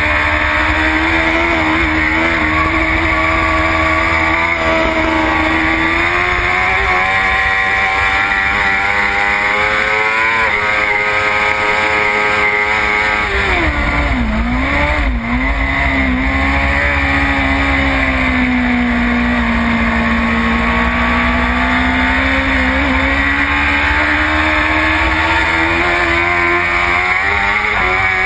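BMW S1000RR inline-four racing engine running hard at high revs, with wind rushing over the camera. About halfway through the pitch drops in a few quick steps, downshifts under braking, then the revs sag through a corner and climb again near the end as the bike accelerates.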